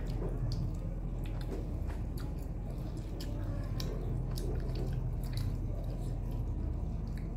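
Close-up chewing of soft steamed vegetable momos (dumplings): wet mouth smacks and small clicks at an uneven pace, over a steady low hum.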